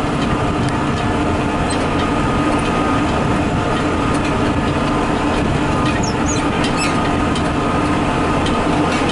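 Steady drone of a farm machine's diesel engine heard from inside the cab while driving, with scattered rattles, clicks and small squeaks from the machine.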